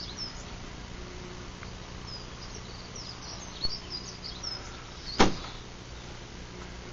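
Small birds chirping here and there over a steady low hum, with one sharp knock about five seconds in, the loudest sound.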